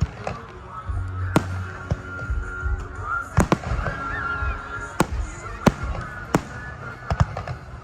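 Aerial fireworks going off: about ten sharp bangs at irregular intervals, from half a second to a second and a half apart.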